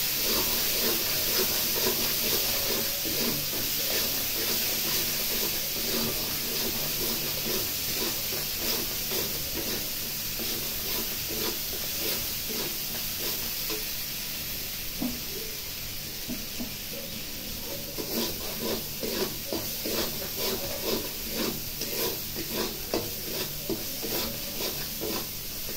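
Chilli paste and cumin paste sizzling in hot oil in an iron kadai while a spatula stirs and scrapes it. The scraping strokes become sharper and more regular in the second half, at about two a second.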